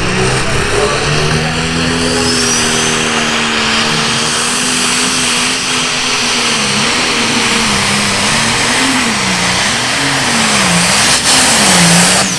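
A high-powered pulling tractor's engine running hard at high revs, with a loud, dense roar. About halfway through its pitch begins to swing up and down about once a second.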